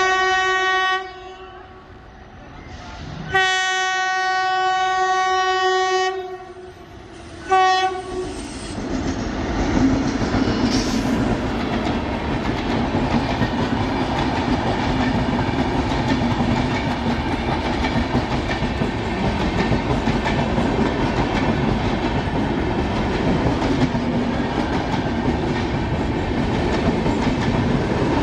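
A WAP-7 electric locomotive's horn sounds three times: a blast ending about a second in, a long blast of roughly two and a half seconds, and a short one near eight seconds. Then the express's coaches run past at speed, a loud, steady rush of wheels on rail.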